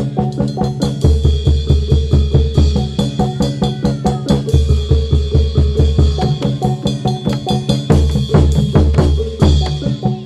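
Reog accompaniment music: fast, driving drumming, several strikes a second, over deep ringing pitched percussion, continuous for the battle scene.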